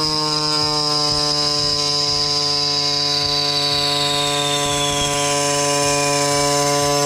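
A power cutting machine running steadily through a cut: a loud, even hum with a high whine that slowly falls in pitch. It starts and cuts off abruptly.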